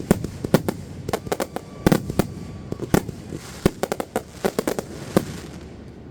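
Consumer fireworks going off: a rapid, irregular run of sharp bangs and pops that thins out near the end.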